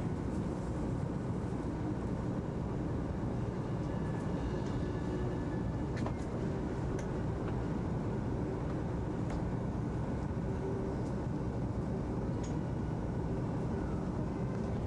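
300 series Shinkansen train running, a steady rumble with a faint even hum and a few light clicks.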